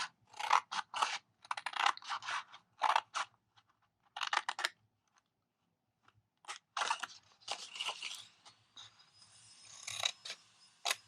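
Scissors cutting card-weight patterned paper: a run of short, irregular snips, a pause of about two seconds midway, then more snipping.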